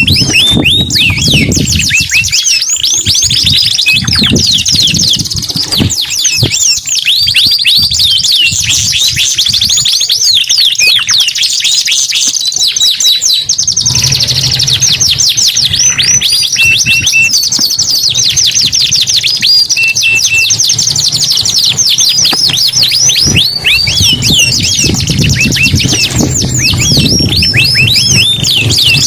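Domestic canary song: long, dense runs of rapid high trills and chirps, broken only by a couple of brief pauses.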